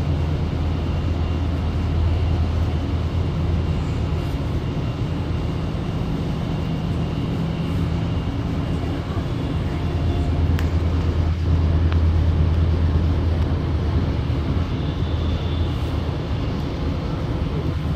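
Sydney Trains Tangara double-deck electric train running at speed, heard from inside the carriage: a steady low rumble of wheels and running gear, with a few light clicks about ten seconds in.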